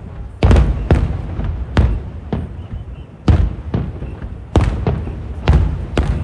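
Fireworks shells bursting one after another: about ten sharp bangs, each trailing off in a low rumble.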